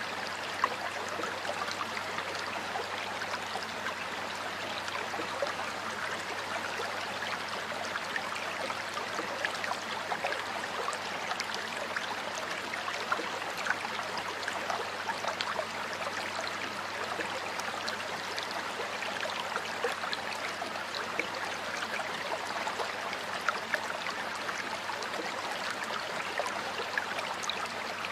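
Flowing stream water babbling steadily, with many small splashes and drips over the running water.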